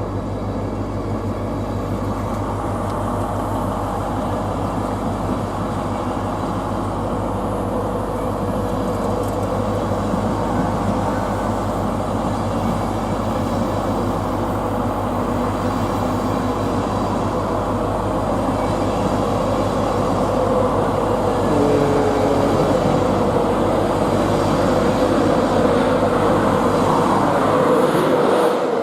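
LNER InterCity 225 electric push-pull train pulling out and rolling past, a steady rumble of wheels on rail over a low electric hum that slowly grows louder as it gathers speed.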